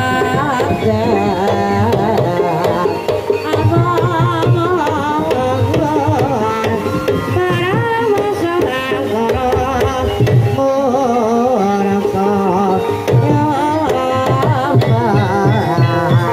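Javanese gamelan music of the kind played for kuda kepang: kendang hand drums beating a steady rhythm under metallophones and a wavering, ornamented melody line.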